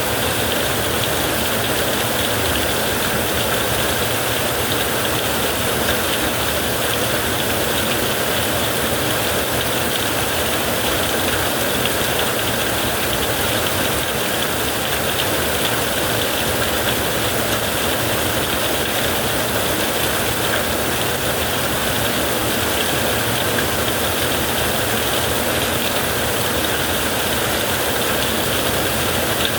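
Heavy rain falling steadily on a tent, an even unbroken hiss with no distinct thunderclap.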